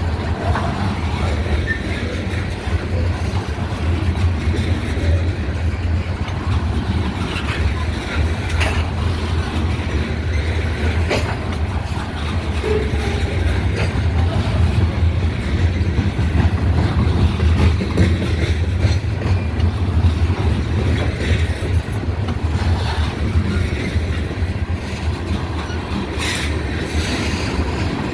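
Freight train cars rolling past steadily, their wheels clicking over rail joints with scattered sharp clicks, under a heavy low rumble of wind on the microphone.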